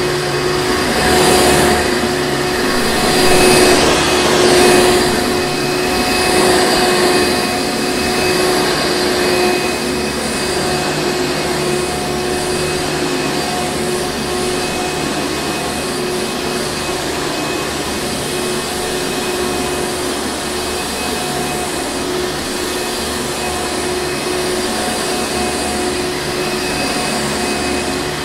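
Hoover Encore Supreme upright vacuum cleaner running steadily: a loud rushing air noise with a steady motor tone on top. The sound swells and dips a few times in the first five seconds, then holds even.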